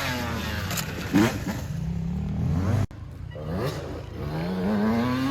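Dirt bike engines revving and accelerating, their pitch climbing and falling as the throttle is worked. The sound cuts off abruptly about three seconds in, then an engine comes back with a steadily rising pitch.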